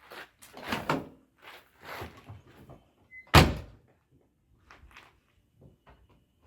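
A run of knocks and clatter, then one loud thunk about three and a half seconds in, followed by a few faint knocks.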